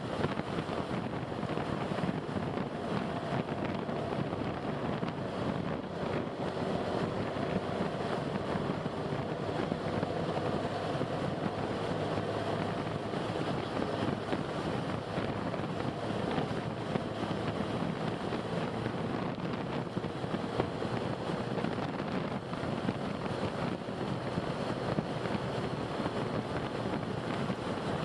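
Steady road and wind noise of a car driving, an even rushing with a faint low hum under it.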